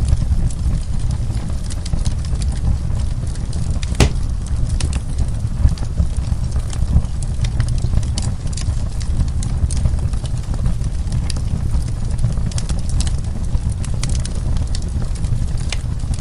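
Wood burning in a fireplace: a steady low rumble of the flames with frequent sharp crackles and pops, one louder pop about four seconds in.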